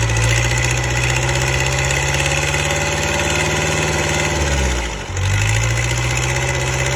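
Mahindra tractor's diesel engine running steadily; about four and a half seconds in its speed sags briefly and then picks up again.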